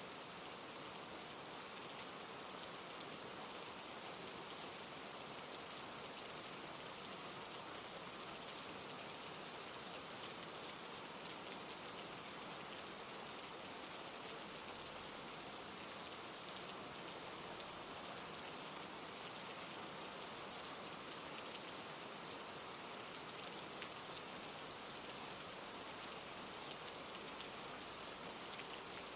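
Steady heavy rain pouring down, an even hiss with many fine drop patters.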